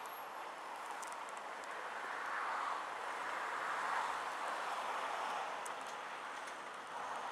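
Wind and road noise from a motorcycle ride in traffic: a steady rush that swells gently about two seconds and four seconds in.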